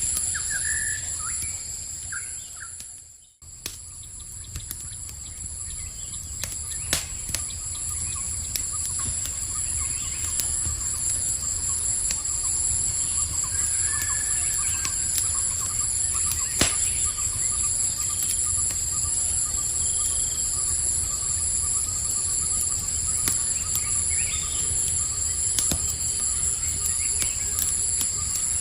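Campfire crackling with occasional sharp pops over a steady trilling chorus of crickets, with a few short bird chirps. The whole ambience briefly drops out about three seconds in and fades back up.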